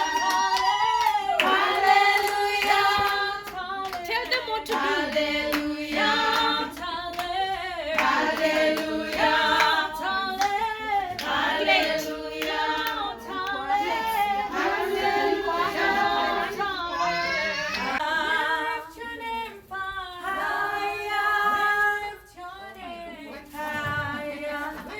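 A group of women singing together in a choir-like chorus, with hand-clapping keeping the beat.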